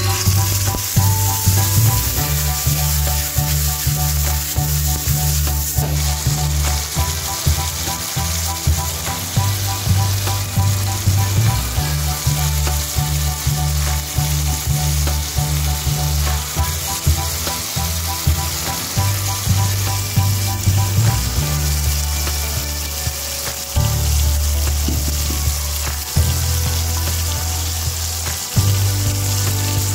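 Grated tomato hitting hot oil in a frying pan and sizzling loudly and steadily as it fries, with occasional stirring.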